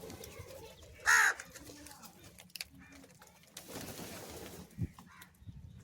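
A crow giving a single short, harsh caw about a second in, with faint small clicks and quiet around it.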